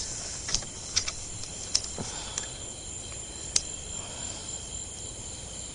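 Steady chorus of crickets, a constant high trill. About six short sharp clicks cut through it in the first few seconds.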